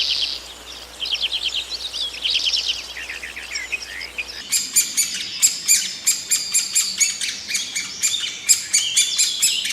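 Small birds singing in fast trilled phrases, then, after an abrupt change about four and a half seconds in, a denser run of rapid, sharp chirps.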